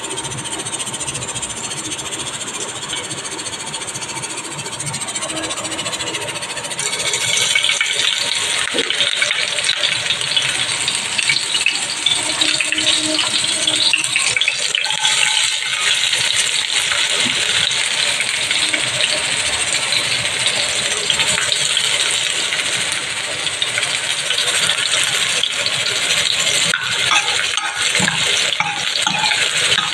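Chopped garlic and green chilli sizzling in hot oil in a steel pan, the frying starting about seven seconds in and running on as a steady, bright sizzle.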